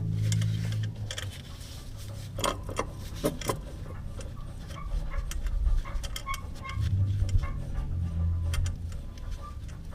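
Metal tools and parts clinking and clicking against each other in irregular taps, with a low hum that swells and fades twice.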